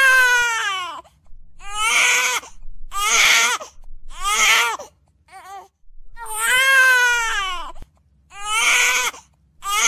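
Baby crying: a run of about eight wailing cries with short gaps between, each falling in pitch, the longest lasting a second or more.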